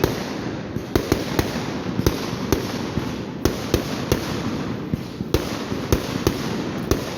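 Fireworks going off: a continuous rumble and crackle with sharp, irregular bangs about two or three a second.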